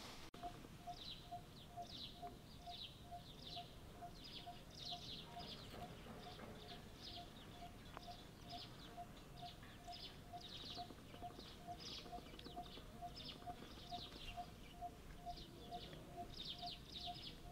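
Birds chirping in quick repeated high notes, over a separate short note that repeats evenly about twice a second.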